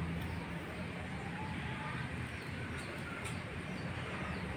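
Faint bird chirps now and then over a steady background hiss.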